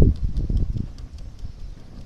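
Low, irregular rumbling buffets on the microphone, loudest at the start and easing off after about a second, with faint ticks above it.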